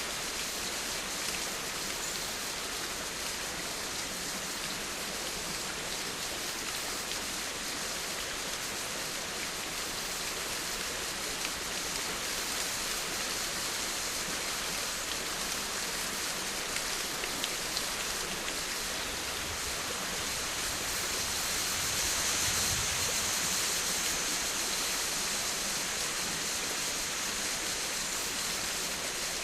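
Steady rain falling: an even hiss with a few faint drop ticks. It grows slightly louder for a few seconds about three-quarters of the way through.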